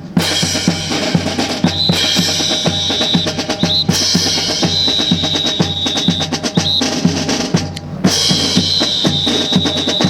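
Brass band marching music led by snare and bass drums keeping a fast, steady beat, with a high held note that recurs about every two seconds.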